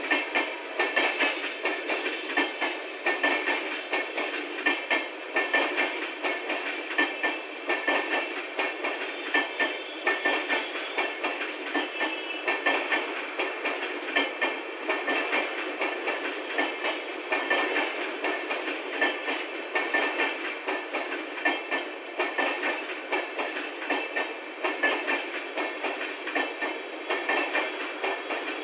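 Indian Railways LHB passenger coaches rolling past at speed, wheels clattering over the rail joints in a rapid, continuous clickety-clack.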